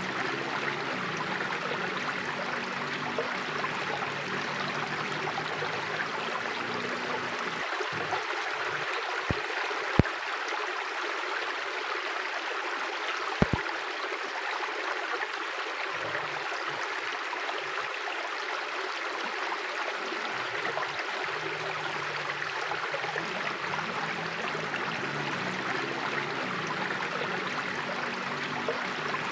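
Mountain river flowing steadily, an even rushing of water, with a few sharp clicks around ten and thirteen seconds in.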